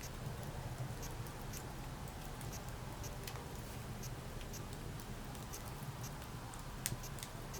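Wood fire crackling: scattered sharp pops and ticks over a low steady rumble, with one louder pop near the end.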